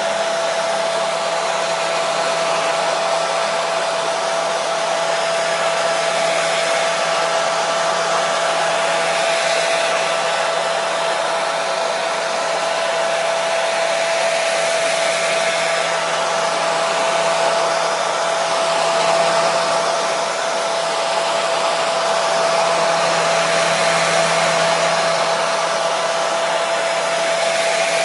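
Hair dryer running steadily on one setting: a continuous rushing hiss of air with a steady motor whine.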